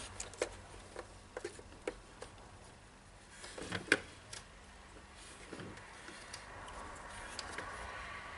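Scattered small clicks and light knocks of tools and parts being handled on a workbench, with a sharper cluster of knocks about four seconds in.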